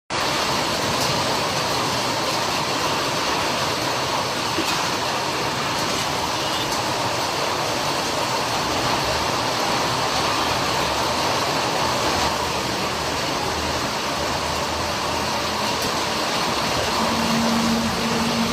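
Heavy rain pouring down in a steady downpour, with a short low hum near the end.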